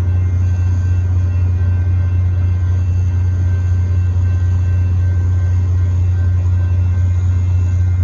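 Union Pacific manifest freight train of covered hopper cars rolling through the crossing: a loud, steady low rumble.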